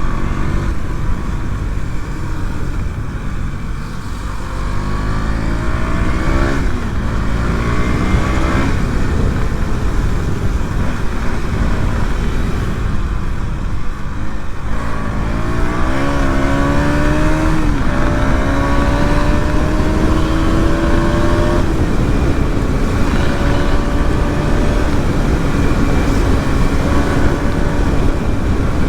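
KTM Duke 200's single-cylinder engine under way, its revs climbing and dropping back several times as it pulls up through the gears. From about two-thirds of the way in it holds a steady cruising note. Wind noise rushes under it throughout.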